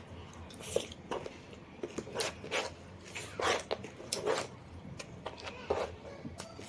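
Close-miked mouth chewing and crunching food in an irregular run of crisp bites, about two a second.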